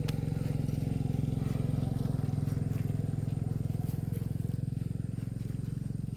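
Motorcycle engine running at a steady speed, its pitch holding even throughout.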